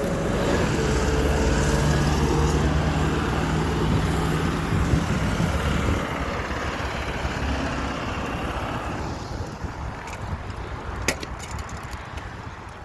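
Motor vehicle engine and road noise close by, loudest in the first few seconds and then fading away over about ten seconds as the vehicle pulls away. A sharp click comes near the end.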